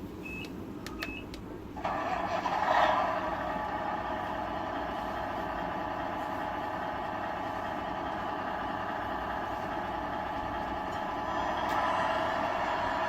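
A Tamiya RC truck's electronic sound unit giving a couple of short beeps, then playing a diesel truck engine start about two seconds in and running on steadily, swelling again near the end. It is thin and tinny, with no deep bass, as from a small onboard speaker.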